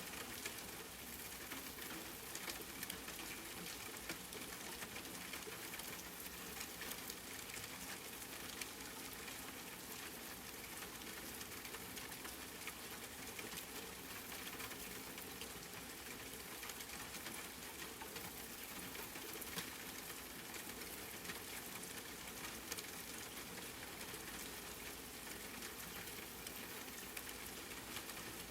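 Steady rainfall: an even hiss of rain with many small scattered drop patters.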